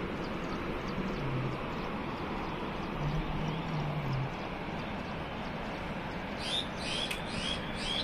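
Steady outdoor background hiss with a faint low hum now and then, and a quick run of short, high bird chirps near the end.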